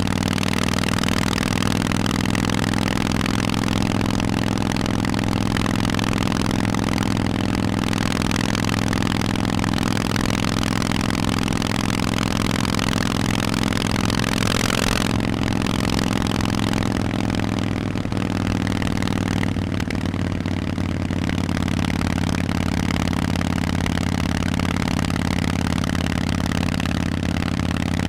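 Harley-Davidson Forty-Eight's air-cooled V-twin running through Vance and Hines exhausts, holding a steady note while under way. About halfway through there is a brief rush of noise, and soon after the engine note eases slightly.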